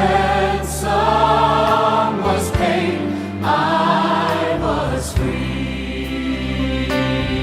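Choir singing a worship song over instrumental accompaniment; the voices stop about five seconds in, leaving the accompaniment playing.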